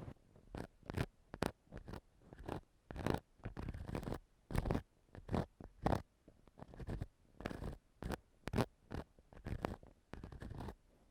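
Ear-cleaning tool scratching and scraping inside a microphone's ear, in irregular short strokes of about two a second, close up and crackly.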